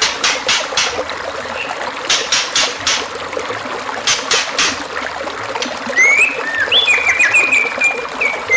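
Trickling water with groups of sharp, clicking chip notes, then about six seconds in a songbird starts a whistled song of rising and falling notes running into a fast trill.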